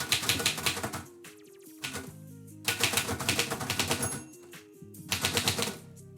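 Typewriter keys struck in three quick runs of clicks, each about a second long, over background music.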